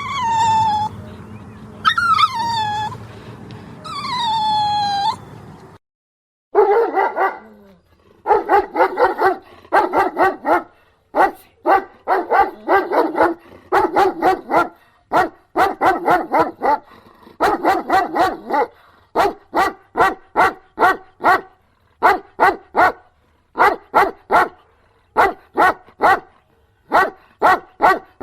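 A dog gives three high, falling whining cries about two seconds apart. After a short silence, a dog barks over and over, first in quick runs of barks, then in short, evenly spaced barks.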